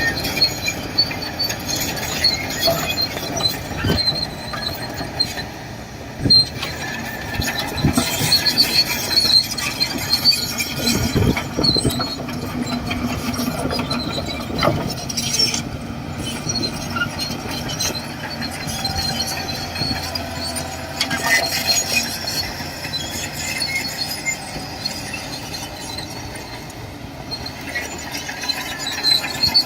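Shantui DH17C2 crawler bulldozer at work: high metallic squealing with intermittent clanks and knocks from its steel tracks and undercarriage, over the machine's steady running.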